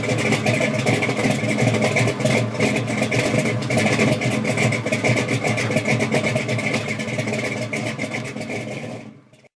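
1965 Pontiac GTO's 389 V8 running steadily with a rapid exhaust pulse, fading out shortly before the end.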